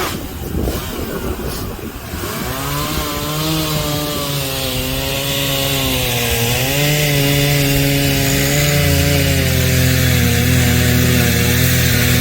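Gas chainsaw cutting into the trunk of a fallen cotton tree. The engine drops from a high rev to a lower, laboured note under the load of the cut. The note is ragged for the first couple of seconds, then steady with a dip and recovery midway.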